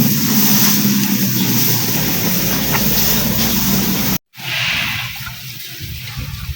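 A motor engine running steadily under a noisy hiss, which cuts off abruptly about four seconds in and gives way to a rougher, more uneven noise.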